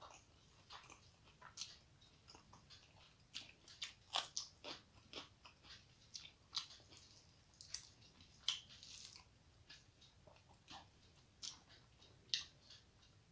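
Close-up eating sounds: a person chewing rice mixed with fried bitter gourd, with irregular wet mouth smacks and short crisp clicks.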